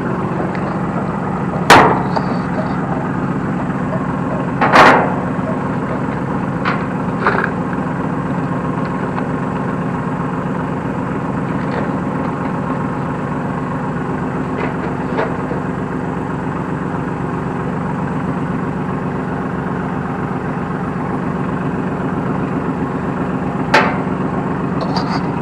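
New Holland T1510 compact tractor's diesel engine running steadily under load while driving a New Holland 269 Hayliner square baler off the PTO. A few sharp, loud knocks or bangs from the baler come at irregular intervals, the loudest about 2 and 5 seconds in and another near the end.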